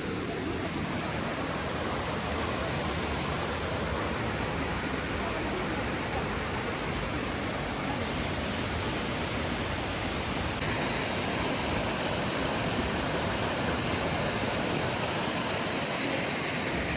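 Steady rush of falling water from a rainforest waterfall, an even hiss with no breaks.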